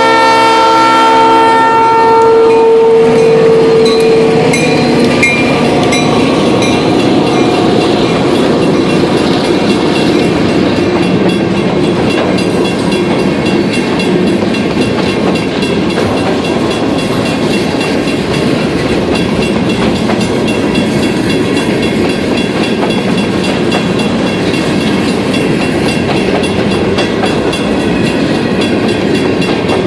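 Maine Northern Railway train: its locomotive air horn sounds a chord that ends about two seconds in. After that comes the steady rumble and clatter of the train rolling along the rails.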